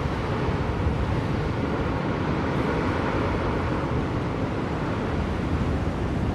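Blizzard wind blowing steadily: a deep, even rushing noise with a slight gust about three seconds in.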